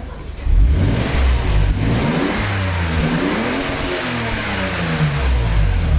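Toyota 2JZ-GTE twin-turbo straight-six engine being revved, its pitch climbing and falling in repeated sweeps after a sharp jump in level about half a second in.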